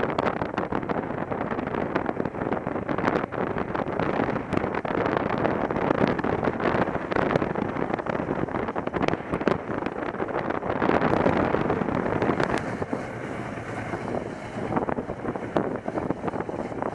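Wind rushing and buffeting over the microphone of a moving motorcycle, a steady roar with frequent crackles, mixed with the bike's running noise.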